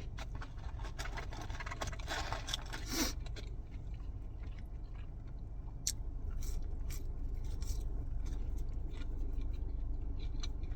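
A person chewing and biting McDonald's fries and chicken nuggets close to the microphone, with scattered small clicks and crunches and a denser crunchy patch about two to three seconds in.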